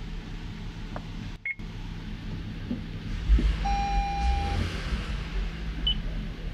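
Toyota Avalon engine running with a steady low hum while cylinder number 1 is misfiring. About halfway, a single electronic beep lasting about a second sounds over a brief low rumble.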